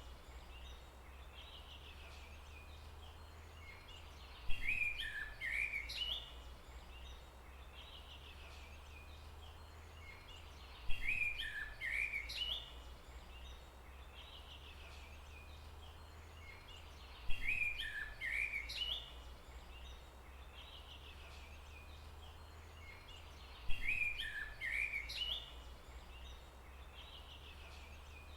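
A songbird repeating the same short phrase of quick chirps and whistles four times, about every six and a half seconds, over a steady low rumble.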